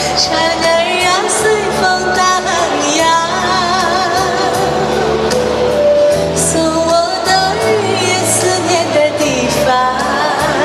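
Live performance of a Chinese pop song: a female voice over a backing track with a steady bass line, the melody held in long notes with wide vibrato.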